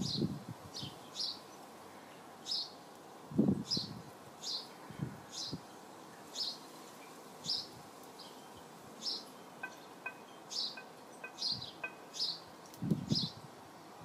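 A bird calling over and over, a short high falling note about once a second. A few soft low thumps stand out, the loudest near the start, about three and a half seconds in and near the end.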